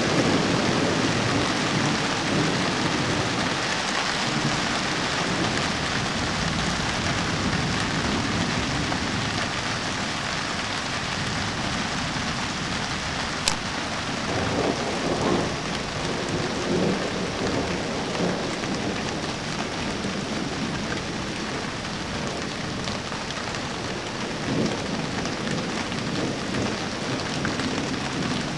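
Steady heavy rain falling, with thunder rumbling at the start and rolling again about halfway through. There is a single sharp click just before the second rumble.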